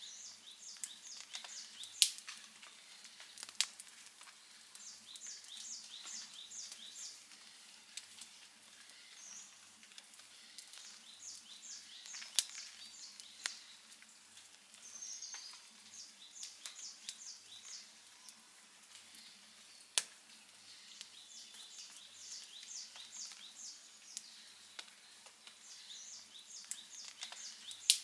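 Outdoor wood fire crackling, with scattered sharp pops and a few loud snaps, the loudest about two seconds in and near the end. Behind it, a high chirping call repeats in quick runs of four to six notes every few seconds.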